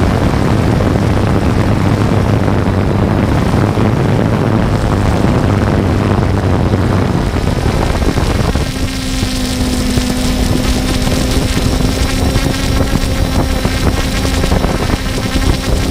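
3DR Solo quadcopter's motors and propellers whirring loudly with wind rush, as heard from its own camera. About eight and a half seconds in, the hum steps up to a higher steady pitch as the motors speed up.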